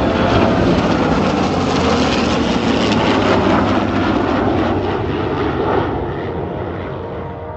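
F-22 Raptor's twin turbofan engines on a pass, a loud steady rushing noise that fades away over the last couple of seconds as the jet draws off.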